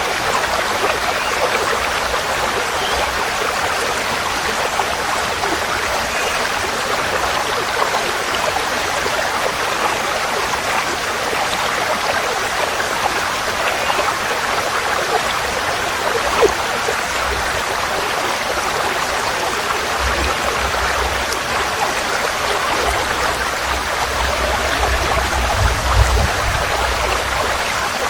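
Forest stream flowing, a steady rush of running water. A low rumble joins in about two-thirds of the way through and fades near the end.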